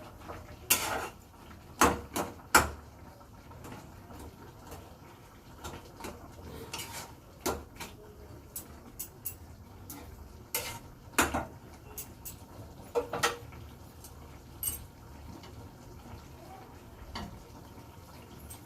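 Metal kitchen pots and utensils clinking and clanking in irregular, scattered knocks, with a few louder clanks about two seconds in and again around eleven and thirteen seconds.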